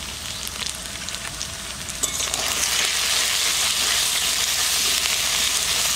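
Taro (gathi kochu) pieces sizzling in hot oil in an aluminium kadai while being stirred with a metal spoon. The sizzle grows louder about two seconds in.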